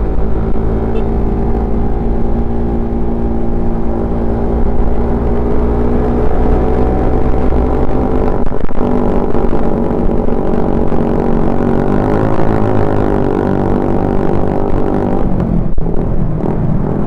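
Suzuki Satria FU 150 fuel-injected single-cylinder four-stroke engine and exhaust running under way, the note shifting in pitch, with brief breaks about halfway through and again near the end.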